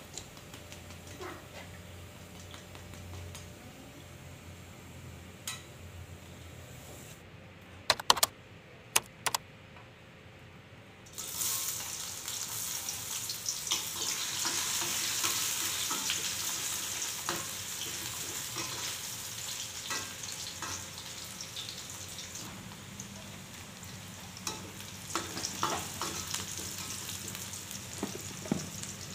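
A few sharp metal knocks, then food dropped into hot oil in a wok starts sizzling suddenly about a third of the way in. The sizzle carries on under a metal spatula scraping and stirring in the wok.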